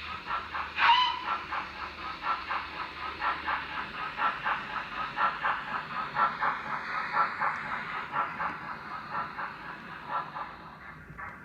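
Steam locomotive sound from a model's DCC sound decoder: an even chuff at about four beats a second, with a short whistle about a second in.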